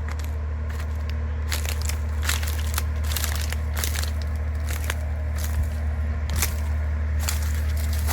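Irregular crunching and crackling clicks, growing busier after the first second or so, over a steady low hum.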